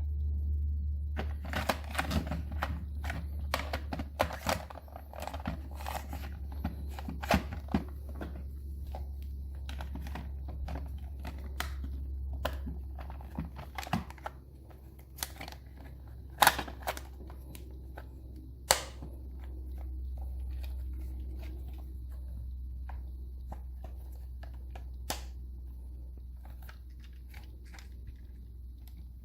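Plastic packaging being handled, crinkling and tearing, with short clicks and knocks that thin out after the first twenty seconds, over a steady low hum.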